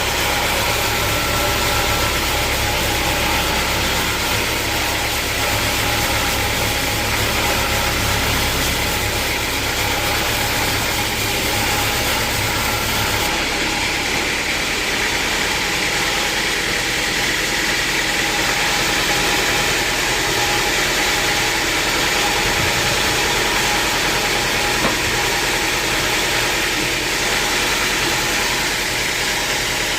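Sawmill machinery running with a steady, loud mechanical noise. About thirteen seconds in, the deep low rumble drops away and the rest of the noise carries on.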